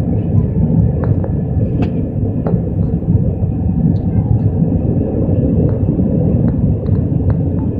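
Cabin noise aboard an Airbus A320 under engine power: a loud, steady rumble of the jet engines and airframe, with faint steady whines above it and scattered small rattles and clicks in the cabin.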